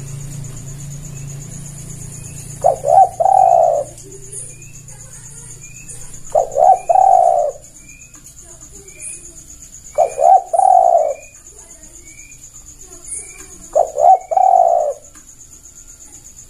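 Spotted dove (tekukur) cooing: four repeated calls, about every four seconds, each of two short notes run into a longer coo.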